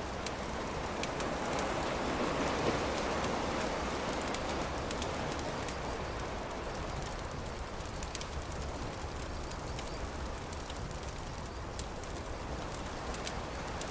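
Campfire crackling: scattered sharp pops and snaps over a steady rushing hiss that swells a couple of seconds in.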